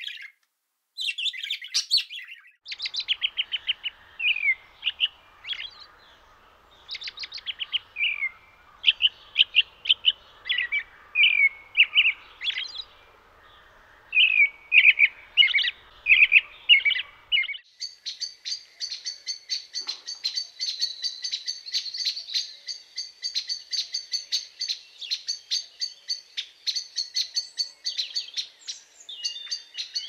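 Small birds chirping and calling in short, quick notes. A little over halfway through, this gives way to a fast, even stream of high chirps that carries on to the end.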